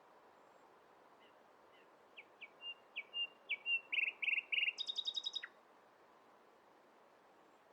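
A songbird sings one phrase: spaced short whistled notes that quicken into a rapid, higher-pitched trill and end in a quick downward slur, over a steady faint background hiss.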